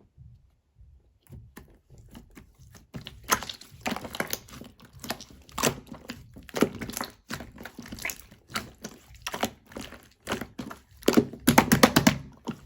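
Slime being squeezed and worked by hand, giving irregular runs of small sticky clicks and pops, with a dense crackling burst near the end.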